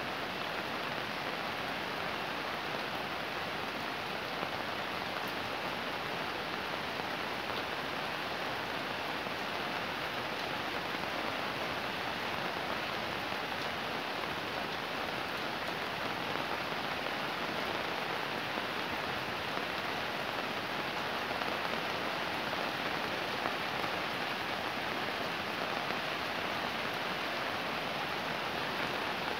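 Fairly heavy rain falling steadily, an even hiss without letup.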